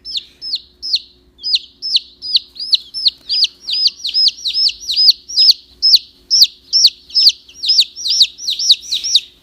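Baby chicks peeping: a rapid, continuous string of short, high-pitched peeps, about three a second.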